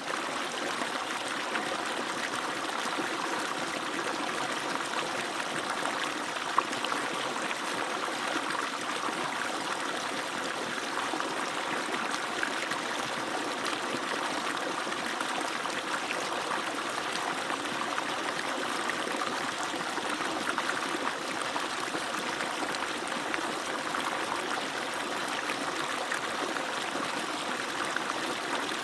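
Water gushing steadily from an agricultural pump's outlet pipe and splashing down, an even rushing pour. One brief sharp click about a quarter of the way in.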